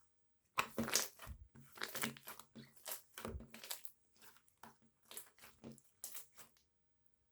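Irregular bursts of close-up crackling and crinkling, like something being squeezed or crumpled by hand.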